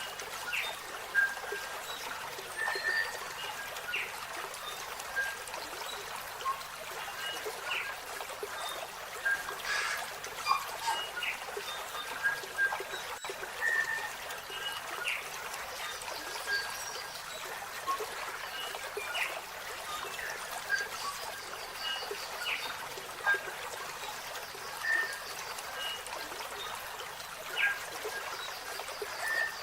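Wild birds calling: short chirps and brief whistled notes, scattered every second or so over a steady hiss.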